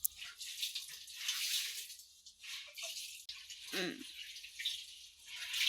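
Wet laundry being trodden underfoot in a basin of soapy detergent water: irregular sloshing swishes of water and cloth.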